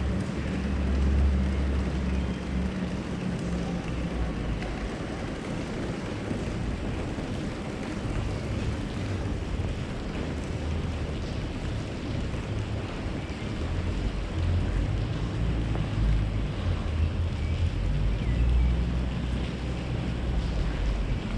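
Outdoor city ambience: a low rumble from wind gusting on the microphone, swelling and fading every few seconds over a steady background hum.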